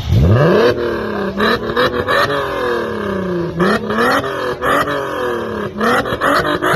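A car engine revved hard again and again. Each rev jumps up quickly and then slides back down, about five times.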